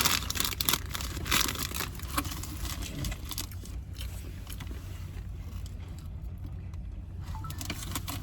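Crunching bites of food close to the microphone, loudest in the first two seconds and then a few softer ones, over a steady low rumble.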